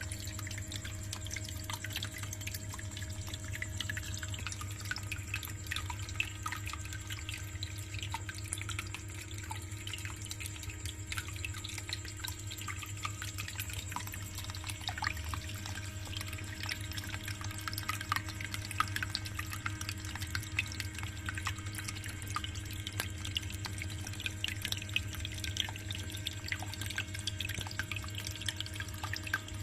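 Small homemade tabletop water fountain running on a DC pump: water trickling and dripping steadily into its basin, with a steady hum underneath.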